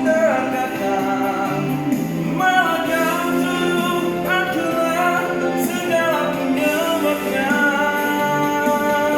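A song: a singer holding long notes, changing pitch every couple of seconds, over a steady accompaniment of sustained chords.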